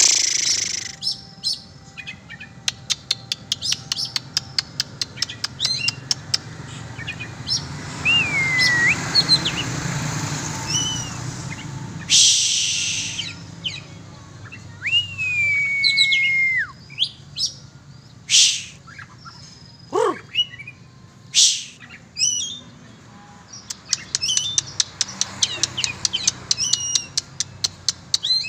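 Oriental magpie-robin (kacer) singing a varied song: fast rattling strings of clicks, short chirps, and a few clear whistles, one falling and then holding. A few short loud rushes of noise break in.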